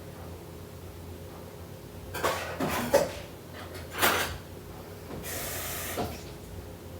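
Kitchen handling noises: a few clattering knocks, another sharp knock, then a brief hiss lasting about a second that ends in a knock.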